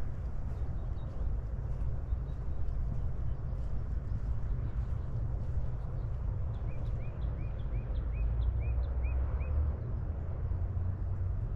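A songbird calls a run of about eight short, upward-sweeping notes at an even pace, over a steady low rumble.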